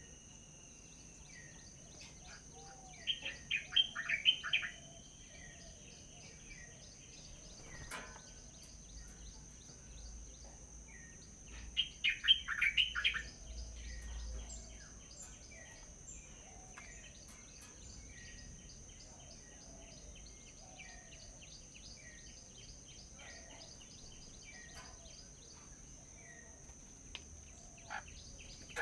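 Songbirds chirping and calling, with two loud bursts of rapid chirps, one about three seconds in and one about twelve seconds in, and many fainter calls between them. A steady high-pitched hum runs underneath.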